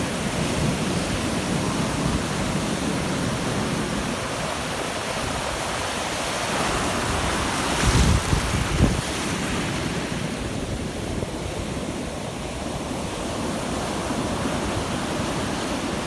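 Ocean surf breaking and washing on a beach, with wind on the microphone. About halfway through there is a brief louder low rumble.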